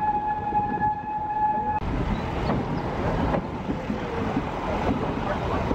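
Narrow-gauge field railway train: a long steady high tone from the locomotive while riding. After a cut about two seconds in, a passenger coach rolls past close by with an even rumble of wheels on rail.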